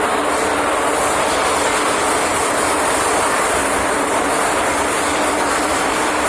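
Hong Kong MTR metro train running at speed, heard from inside the carriage: a loud, steady rushing rumble with a faint steady hum under it.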